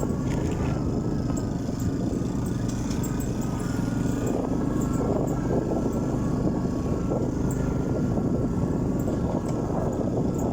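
Orion motorcycle engine running steadily at a near-constant speed.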